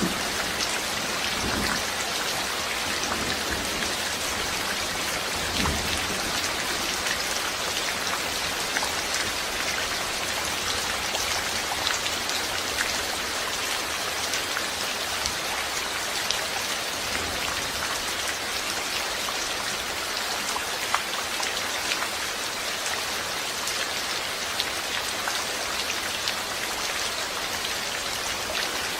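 Steady heavy rain, an even rush of water with dense drops ticking on surfaces. A low rumble of thunder dies away in the first couple of seconds.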